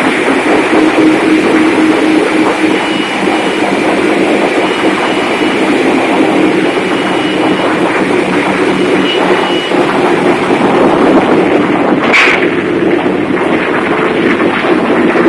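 Loud, steady din of a ferry's engine room: large marine diesel engines and machinery running, with a faint on-off high whistle and one brief sharp sound about twelve seconds in.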